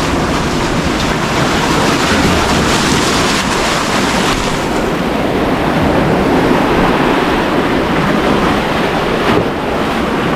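Loud surf breaking and washing over a rough coral-rock shoreline, its hiss easing about halfway through, with wind buffeting the microphone.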